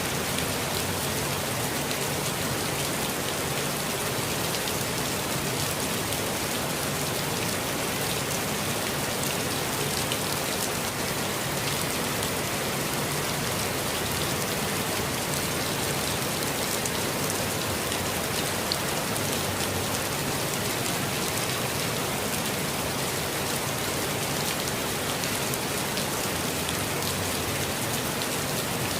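Steady rain falling on a forest, an even hiss with many fine pattering drops and no change in strength.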